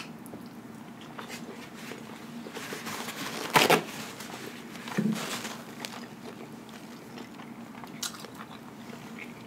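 Close-miked chewing of a mouthful of Wendy's Quadruple Baconator burger with the mouth closed, soft wet mouth sounds throughout. One louder smack comes about three and a half seconds in, and a short hum a second and a half later.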